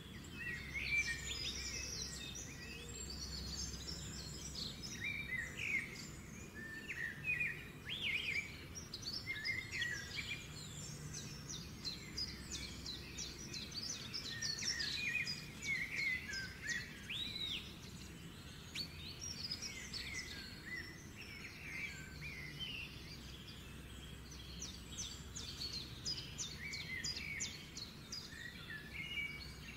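Small birds chirping and singing, many short repeated calls and trills overlapping throughout, over a faint steady low hum.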